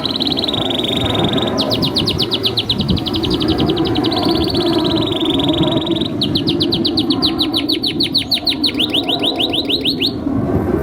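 Domestic canary singing a long song: a fast buzzing trill, then a run of quick repeated falling notes, then a slower series of sweeping notes, breaking off about ten seconds in. A steady low hum of background noise runs underneath.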